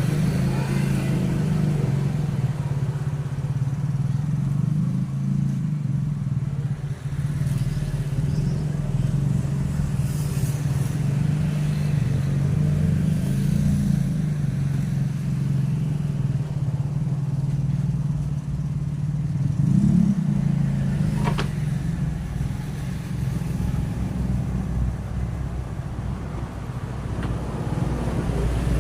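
Steady low motor hum, with a single sharp click about twenty-one seconds in.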